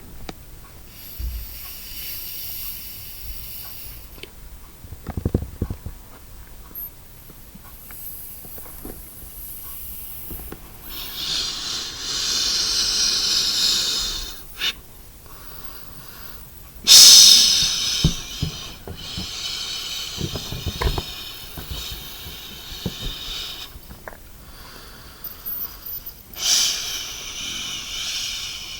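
A person blowing into a long, thin jet balloon (rocket balloon) to inflate it by mouth: about five long hissing puffs of breath, with pauses between them.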